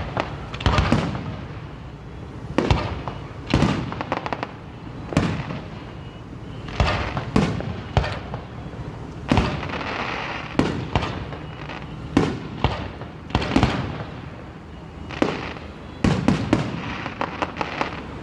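Aerial firework shells bursting overhead in a steady run, a sharp bang about every second, each trailing off in an echo, with a rapid crackle of small reports near the end.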